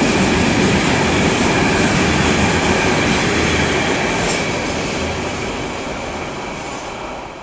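A train rolling past close by: loud, continuous noise of wheels on the rails, with a faint steady high tone, gradually dying away over the last few seconds.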